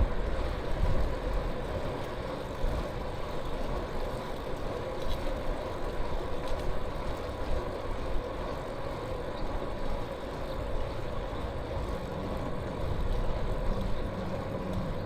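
Steady rumble of riding a bicycle along a path: wind and road noise on the microphone, with motor-vehicle traffic and a faint steady whine.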